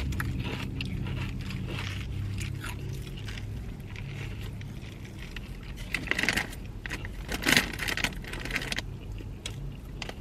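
Close crunching and chewing of spicy rolled tortilla chips (Doritos Dinamita), with louder crunches about six and seven and a half seconds in, over a steady low hum.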